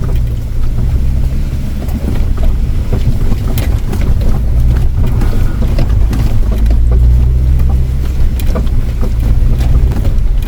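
Off-road vehicle driving slowly over a rough, stony mountain track, heard inside the cabin: a steady low engine and road drone with scattered short knocks and rattles from the bumps.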